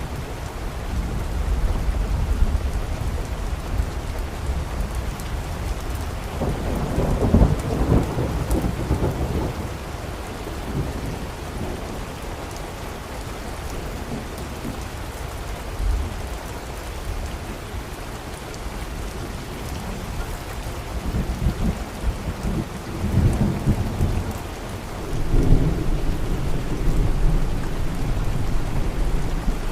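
Steady rain falling, with low rumbles of thunder rolling in a little after the start and again in the last third.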